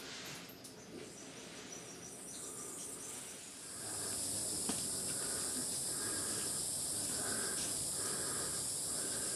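Rainforest insects buzzing. A loud, steady, high-pitched insect drone swells in about four seconds in and holds, with a short chirp repeating under it about once a second.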